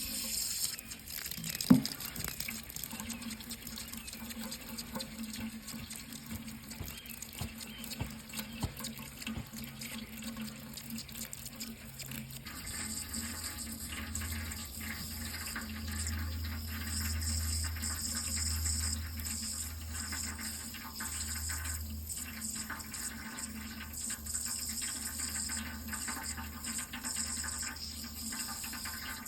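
Water running steadily, with one sharp click about two seconds in. A low hum comes in under the water about halfway through.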